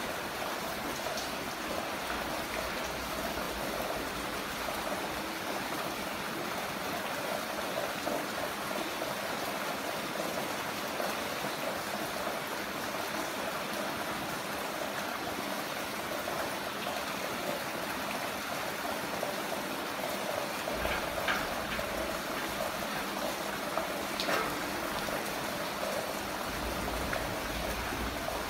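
Heavy rain falling steadily in an even rush, with a few sharper drip or splash ticks in the second half.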